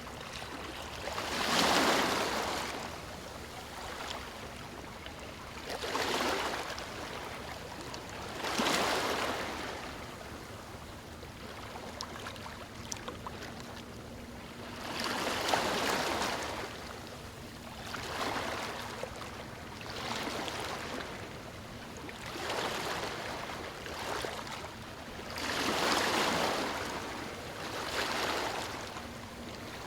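Small waves breaking on a stony shore, one washing in every three or four seconds, each a rush of surf that swells and fades over a steady wash of water.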